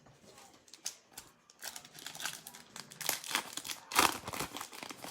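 Crinkling and tearing of a football trading-card pack wrapper being ripped open and handled, in irregular crackles that are loudest about four seconds in.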